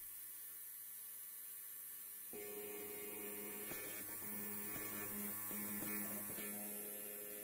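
Electric hair clipper buzzing steadily. About two seconds in it grows louder and rougher, with a few faint crackles.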